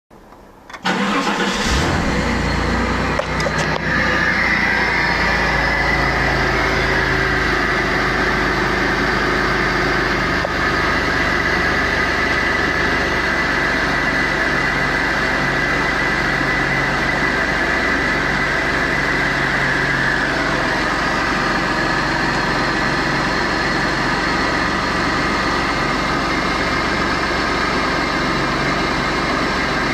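Chrysler 3.0 V6 (Mitsubishi 6G72, 12-valve) cold start: the engine catches about a second in and runs on at a steady idle, its note changing slightly around ten and twenty seconds in.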